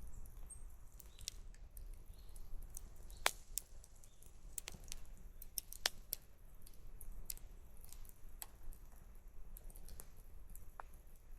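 Wood campfire crackling, with irregular sharp pops and snaps, the two loudest about three and six seconds in, over a low steady rumble.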